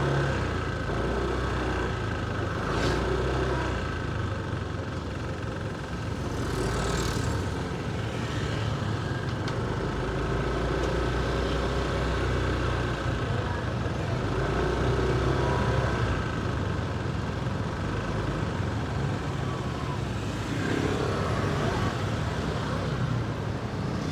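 Motorcycle engine running while riding through city traffic, its note stepping up and down now and then, with other vehicles passing close by.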